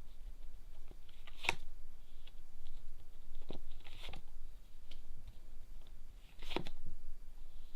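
Tarot cards being handled, shuffled and drawn, with soft crackling and four sharp snaps as cards are flicked or laid down.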